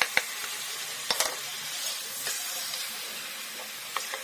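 Chicken pieces sizzling in hot oil with chopped onion in a pan, while a wooden spatula turns them, knocking and scraping against the pan a few times, twice in quick succession about a second in.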